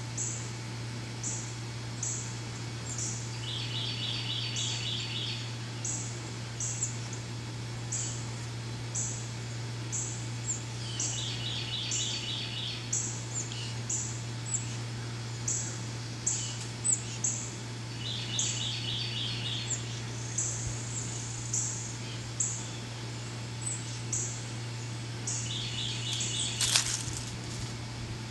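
Birds calling outdoors: a short high chirp repeating about every half second to a second, and a brief rapid trill roughly every seven seconds, over a steady low hum. A single sharp click near the end.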